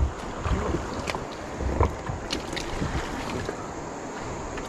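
Moving river water and wind buffeting the microphone on a small boat, with a few short sharp splashes or knocks.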